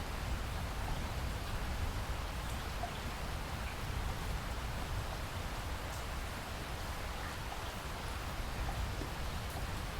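Steady rain falling, with a constant hiss, a low rumble underneath, and a few faint individual drops ticking.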